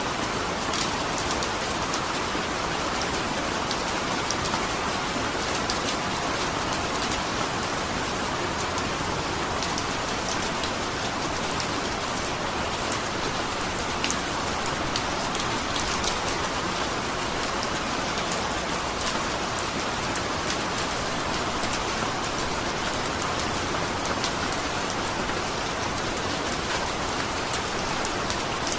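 Steady rain falling, a constant hiss with scattered drops pattering on a surface.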